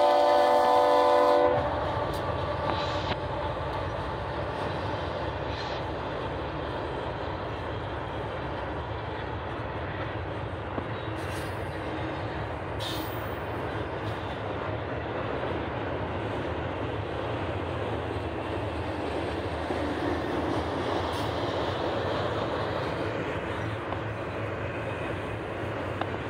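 A freight locomotive's multi-chime air horn holds a chord, which cuts off about a second and a half in. After it comes the steady noise of a long doublestack intermodal train's container cars rolling past on the rails.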